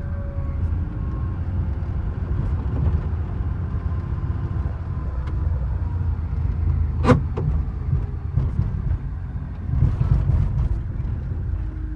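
Mining dump truck running with a steady, heavy low rumble and a faint whine, a single sharp knock about seven seconds in, and a brief louder surge around ten seconds.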